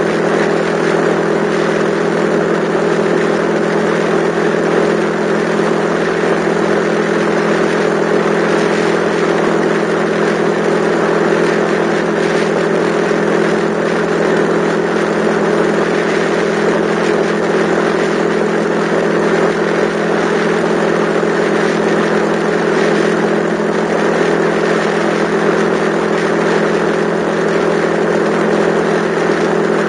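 Yamaha XTZ125's single-cylinder four-stroke engine running at a steady cruising speed, its note holding one pitch throughout, over a constant rush of wind and road noise.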